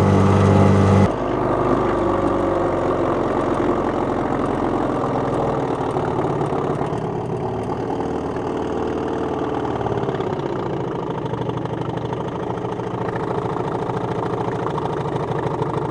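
1965 Evinrude Lightwin two-stroke outboard motor running at full throttle, then throttled back about a second in and left running slow and low at idle.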